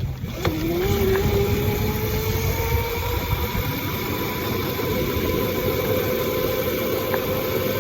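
Small motorbike running along a road. Its whine rises in pitch over the first few seconds as it speeds up, then holds steady over a low rumble.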